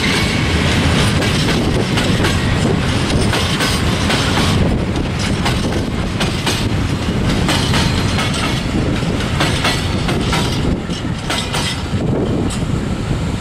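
Freight train of open-top wagons rolling past, its wheels clicking steadily over the rail joints. The clicking thins out near the end as the last wagon goes by.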